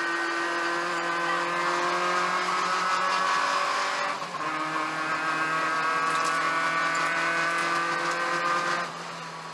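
Peugeot 205 1.9 GTI's four-cylinder engine heard from inside the cabin, accelerating with the revs climbing steadily. About four seconds in there is a brief break and the pitch drops as it shifts up a gear, then the revs climb again. Near the end the engine sound falls away sharply.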